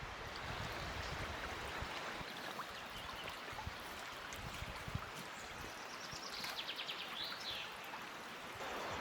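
Steady rush of a river flowing, with wind buffeting the microphone in low gusts. A short run of high chirps comes in about six and a half seconds in.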